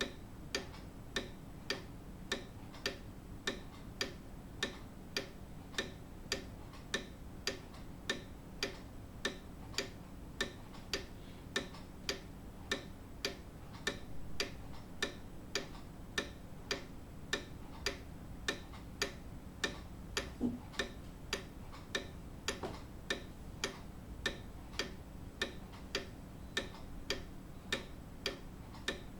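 Grandfather clock ticking steadily, with even, sharp ticks coming a little under two a second.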